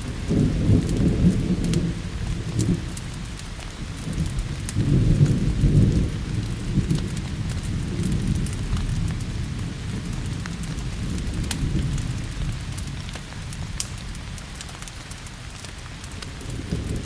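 Steady rain with thunder rumbling low in slow swells, the loudest near the start and about five seconds in, then fading. Scattered sharp crackles from a wood fire run throughout.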